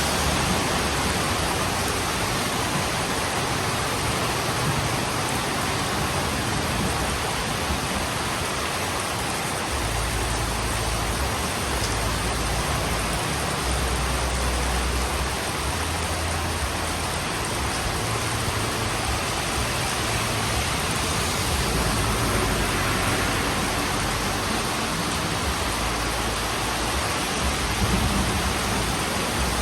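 Heavy rain falling steadily on a roof, a dense even hiss. From about ten seconds in, low rumbles of distant thunder come and go beneath it.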